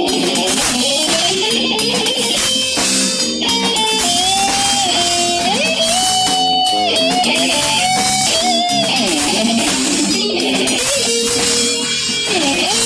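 Heavy metal band playing: electric guitars over drums and crashing cymbals, with a lead melody of held, bending notes through the middle.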